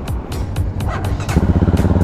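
Background music with a steady beat. About one and a half seconds in, the Bristol 400i's 397cc single-cylinder four-stroke engine starts and runs at a steady, fast-pulsing idle.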